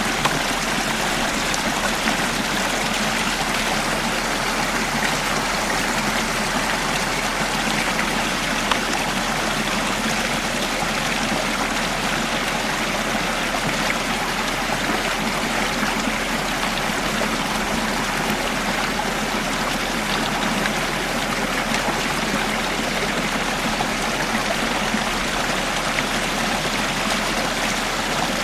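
Stream water in a wadi running steadily, an even rushing and splashing that stays the same throughout.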